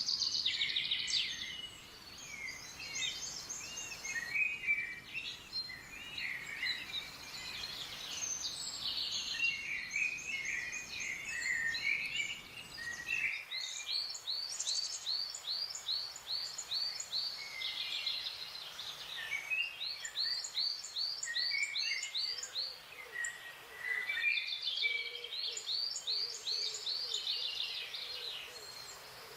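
A chorus of several wild songbirds calling and singing at once, full of chirps and quick trilled runs of repeated notes.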